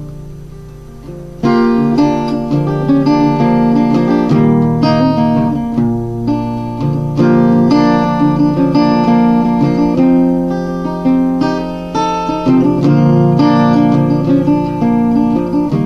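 Instrumental break in a song: an acoustic guitar picking a run of quick notes over held low notes. It starts up about a second and a half in, after a fading chord.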